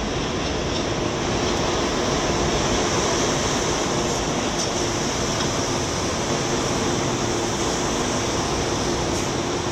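New York City Subway M train at the station, making a steady rumble and hiss with a steady hum underneath.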